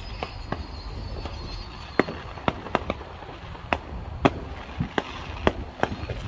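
Neighbourhood fireworks going off: about a dozen sharp pops and bangs at uneven intervals, some louder and some fainter.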